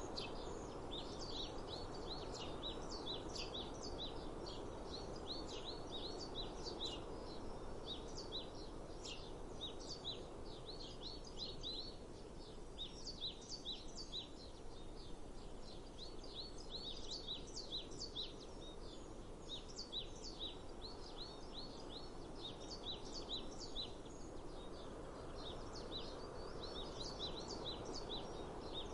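Many small birds chirping and twittering continuously in quick, overlapping calls over a steady low outdoor rush of background noise that swells and eases.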